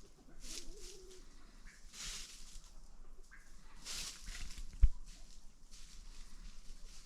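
Farm birds giving a few soft calls amid repeated scratching and rustling, with one dull thump about five seconds in.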